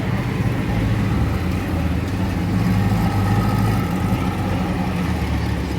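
Car engine running steadily, a continuous low rumble.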